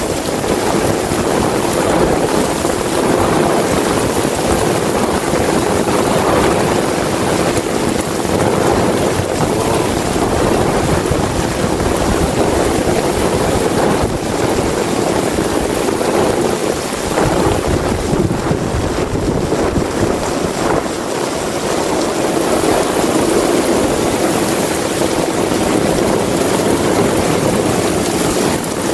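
Heavy rain falling steadily and loudly, with an uneven low rumble of wind underneath.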